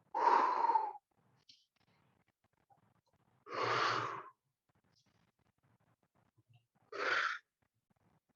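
A person's deep, audible breaths: three long breaths about three seconds apart, paced to slow tai chi movements with an exhale as the body goes down and an inhale as it comes up.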